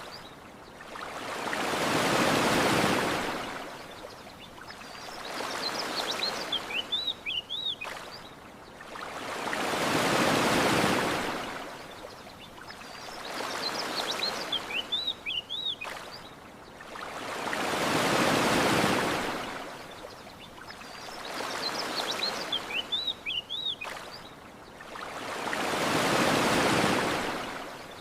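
Gentle ocean waves washing onto a shore, each swelling and falling away about every eight seconds in an identical repeating pattern. Small birds chirp briefly in the lull between waves.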